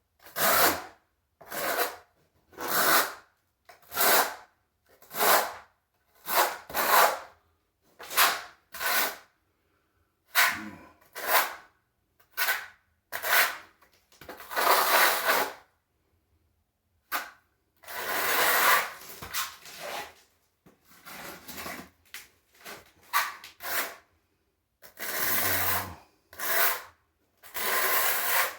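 A hand tool scraping across a tile floor in a series of short, separate rasping strokes, roughly one a second, with a couple of brief pauses.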